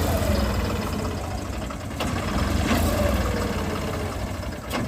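Heavy diesel farm machinery engine running steadily and loudly, a deep even drone with slight rises and falls in pitch.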